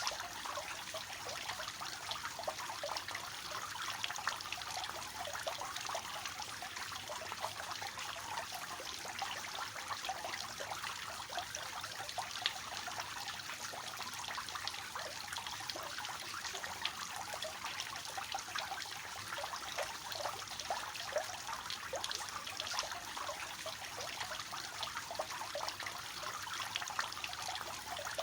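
Water falling steadily from a three-tiered cascade fountain, an even splashing trickle.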